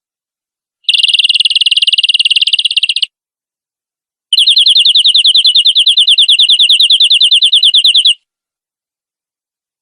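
Domestic canary singing two rapid, even trills on one steady high pitch, the first about two seconds long and the second about four, with silence between.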